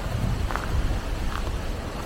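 Wind buffeting the camera's microphone as an uneven low rumble, with two short, faint high chirps about half a second and a second and a half in.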